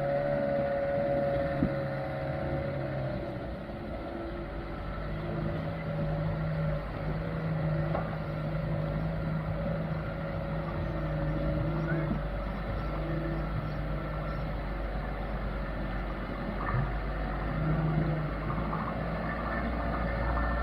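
Old truck's engine running at low, uneven revs, its pitch stepping up and down a little, as it pushes through deep river water; a few faint knocks.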